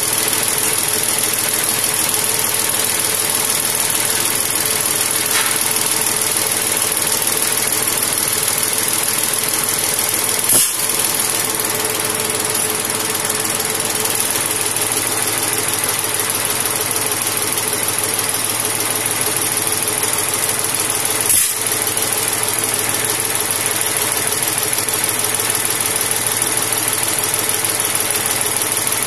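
Mahindra tractor's diesel engine running steadily at idle, with a constant high hiss over it. Two short sharp clicks come through, one about ten seconds in and one about twenty-one seconds in.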